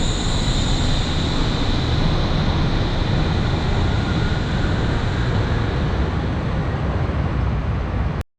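Wuppertal Schwebebahn suspended railway car running, heard from inside: a steady loud rumble and rush of noise, with a high whine that gradually fades. It cuts off abruptly near the end.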